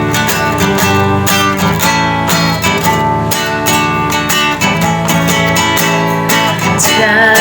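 Acoustic guitar strummed in a steady rhythm, playing the introduction to a worship song; a singing voice comes in at the very end.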